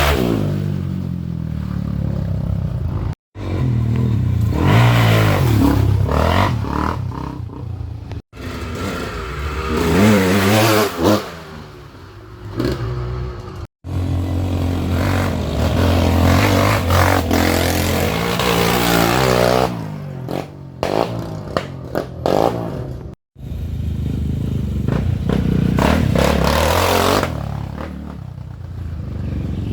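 Trail motorcycle engines revving hard, pitch rising and falling again and again, in several short stretches joined by sudden cuts.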